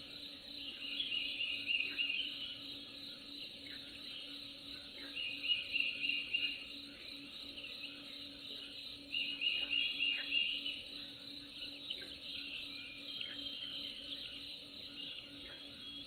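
Nature ambience: a steady insect chorus with short, rapid chirping trills that come back about every four seconds.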